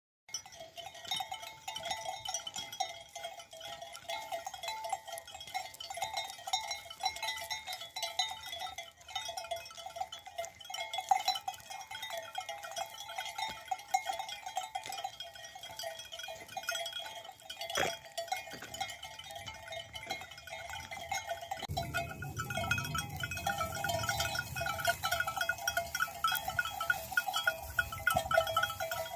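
A flock of sheep bleating, with a low rumble coming in about twenty seconds in.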